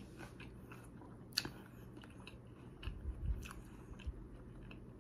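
Close-miked chewing of a mouthful of leafy salad and shrimp, with a few sharp wet mouth clicks and a low thump about three seconds in.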